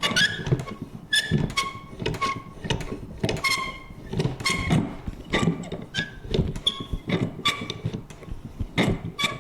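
A vintage paper punch clacking and creaking over and over: sharp knocks about two a second, unevenly spaced, many with a short squeak from the lever.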